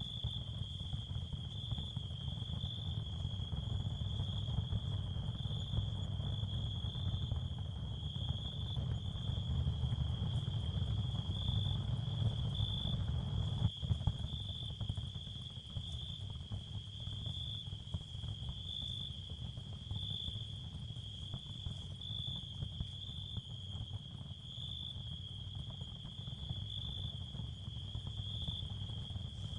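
Continuous ambient sound bed for tinnitus masking: a steady, high cricket chirring with a faint pulse over a low rumbling noise, which eases slightly about halfway through.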